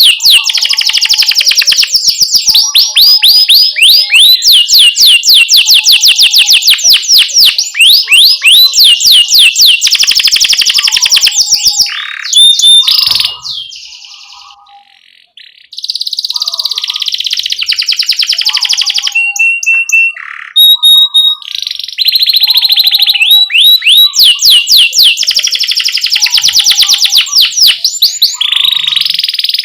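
Domestic canary singing loud, rapid rolling trills of repeated high sweeping notes, with a short break about halfway through.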